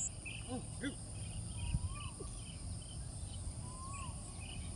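Open-air rural ambience: a steady high insect drone, scattered short chirps, and a call that rises and falls, heard about every two seconds, over a low rumble of wind.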